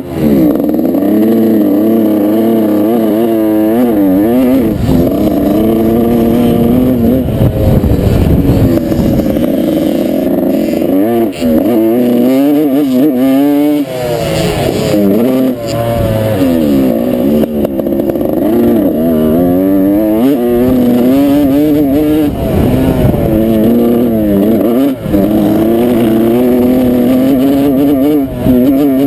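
Dirt bike engine revving hard and easing off again and again, its pitch climbing and dropping every second or two as the rider works the throttle and gears around the motocross track.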